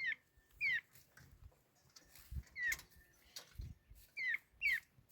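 A bird calling: short whistled notes that slide down in pitch, mostly in pairs, repeated about three times. A couple of faint low thumps sound in between.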